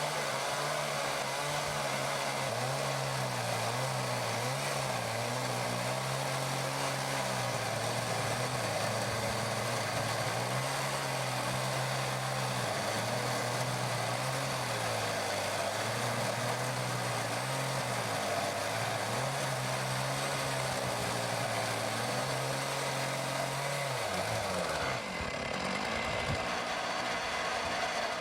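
Chainsaw in an Alaskan chainsaw mill running at high revs while ripping a slab lengthwise from a maple log, its engine pitch wavering slightly as the load changes. Near the end the revs drop as the throttle eases off.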